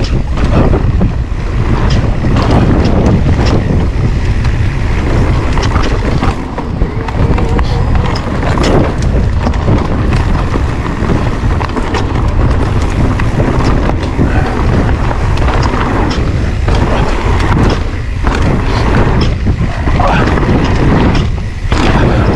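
Electric mountain bike ridden over a rough woodland trail: heavy wind rumble on the microphone, with frequent knocks and rattles as the bike goes over bumps.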